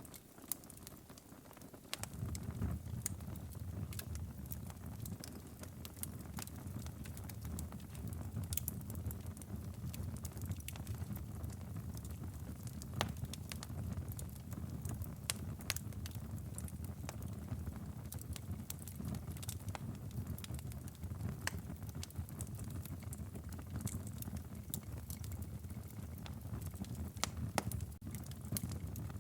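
Wood fire burning in a fireplace, crackling with irregular sharp pops and snaps over a low flame rumble. The rumble is absent for about the first two seconds, then sets in.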